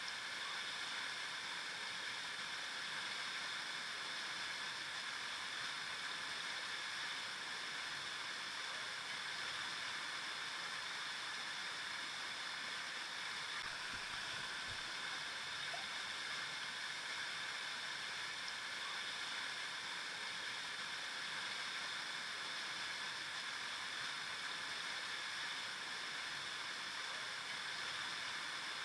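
River water flowing steadily over rocks, a continuous rushing and babbling without pause.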